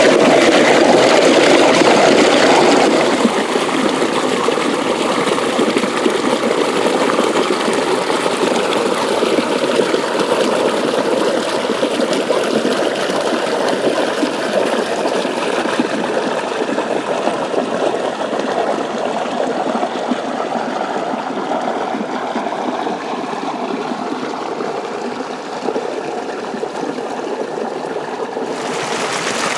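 Water running and gurgling along an irrigation ditch, a steady rush that is louder for the first three seconds and then a little softer.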